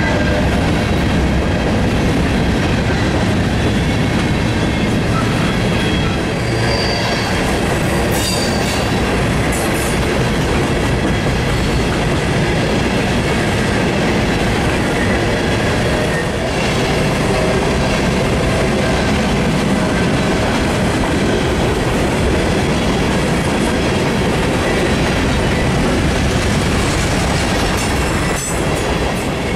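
Norfolk Southern freight train of loaded covered hopper cars rolling steadily past: a continuous rumble and clatter of steel wheels on rail. Brief high wheel squeals come through a few times, about a quarter of the way in and again near the end.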